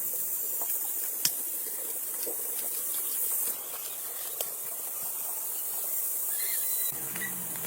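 A steady high-pitched hiss with a few light clicks and taps scattered through it.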